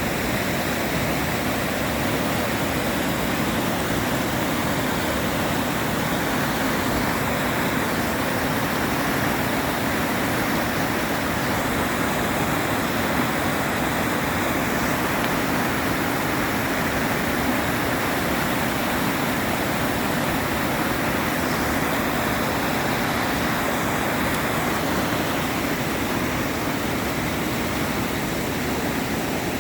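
Steady rush of a flooded creek running high after heavy rain, an even roar of water with no break.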